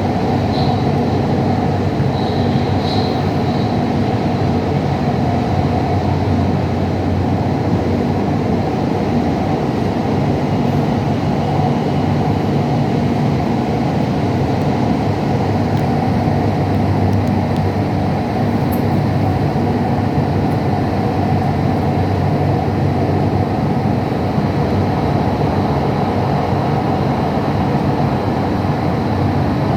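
Qatar metro train running steadily between stations, heard from inside the carriage: a continuous, even rumble of wheels and motors.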